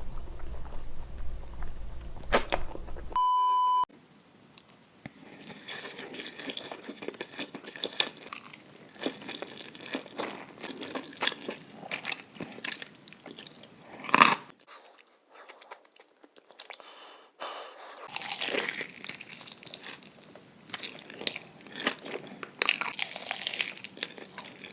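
Close-miked chewing and mouth sounds of someone eating spicy noodles: wet clicks, smacks and crunches. A short steady beep sounds about three seconds in, and there is one loud snap about halfway through.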